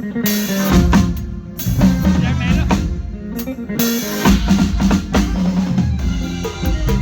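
Band music with a drum kit playing a steady beat of kick, snare and rimshot over a bass line and other instruments.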